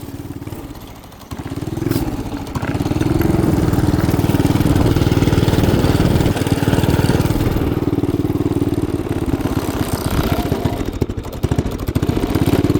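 212cc single-cylinder engine driving a small ride-on machine: quieter at first, it is throttled up about a second in and held at a steady speed, dipping briefly near the end. The rider says the engine 'ain't liking it'.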